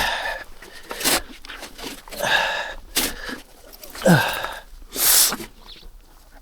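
A man breathing hard and grunting with effort, in short noisy breaths every second or so and two falling grunts, as he labours at heavy physical work.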